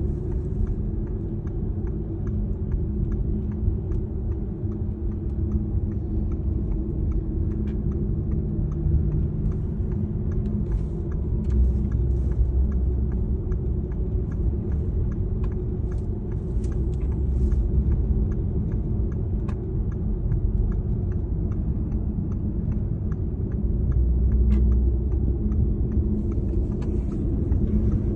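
Steady low rumble of a moving vehicle, with an even hum and scattered faint ticks.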